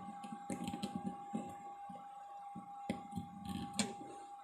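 Soft scattered clicks and taps of small tools working on a circuit board while soldering a MOSFET leg, over a faint steady tone.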